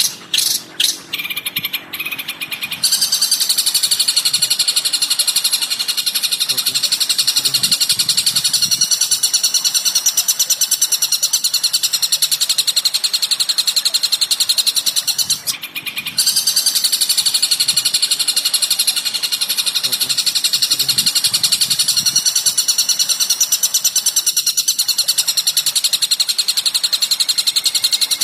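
Recorded bird song played as a training track for a caged songbird. A few separate sharp notes open it, then a very fast unbroken trill of high notes takes over about three seconds in. The trill stops once, briefly, about halfway through.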